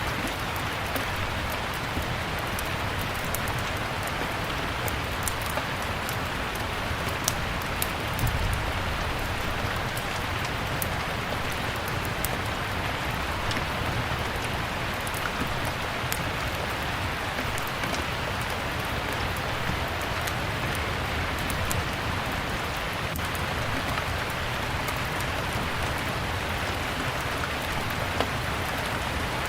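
Steady rain, with scattered sharp pops and crackles of a wood fire burning in a fireplace. There is a brief low thud about eight seconds in.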